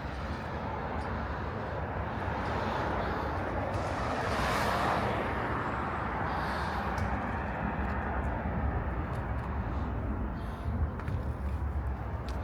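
Steady outdoor traffic noise, swelling as a vehicle passes about four to five seconds in, with a few faint clicks.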